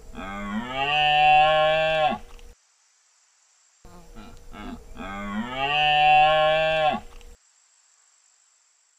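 A deer bellowing (belling): a long, low, moo-like call, played twice. Each call lasts about two seconds, rises at the onset, holds steady and drops away at the end.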